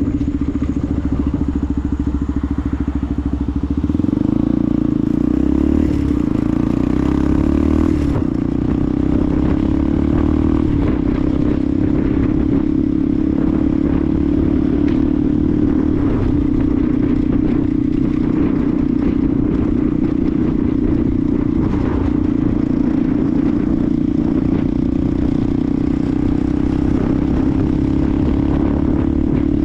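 Benelli TNT 125 single-cylinder engine running on the move. About four seconds in the revs climb for a few seconds, then the engine settles into a steady note at cruising speed.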